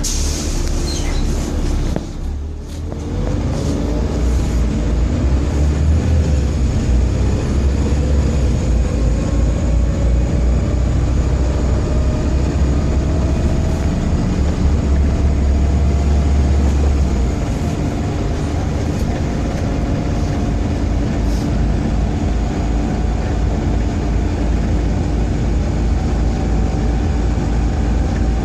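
Volvo B7TL double-decker bus heard from on board: its diesel engine runs with a heavy low rumble and a slowly rising transmission whine as the bus gathers speed after a brief lull about two seconds in. The deep rumble eases somewhat past the middle. It is typical of the bad engine vibration this bus is known for.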